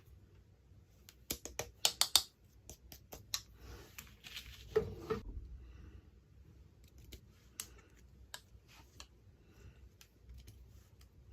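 Hands unboxing miniature toys: a quick run of sharp plastic clicks and taps a little over a second in, loudest around two seconds. A short rustle of packaging follows, then scattered lighter clicks.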